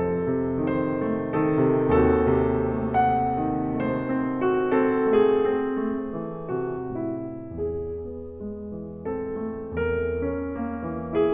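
Slow, gentle piano music with sustained low bass notes under it.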